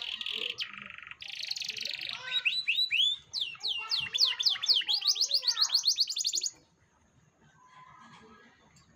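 Domestic canary singing: a run of buzzy rolls and fast trills of repeated rising and falling sweeps. The song stops about six and a half seconds in.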